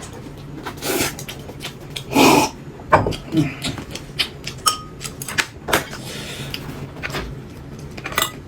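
Kitchen clatter: a series of knocks and clinks from cupboards, dishes and pans being handled, with one louder scraping rush about two seconds in, over a steady low hum.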